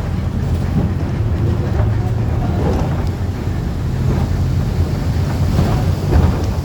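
Wind buffeting the microphone in a gusty storm: a loud, steady, fluttering low rumble.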